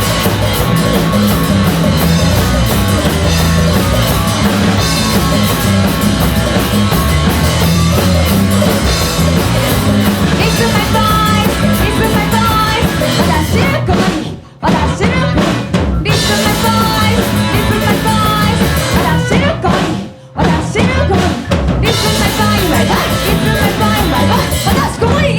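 Punk rock band playing loud and fast: a drum kit, bass and distorted guitar. The whole band stops dead for a moment about halfway through and again a few seconds later, then crashes back in.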